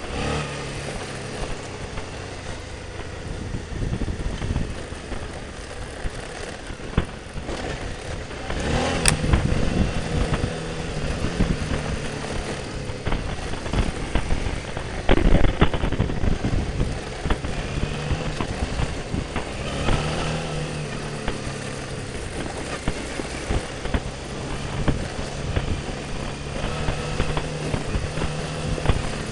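Motorcycle engine running while riding a rough dirt trail, the revs rising and falling with the throttle. Sharp knocks about nine and fifteen seconds in, the second the loudest moment.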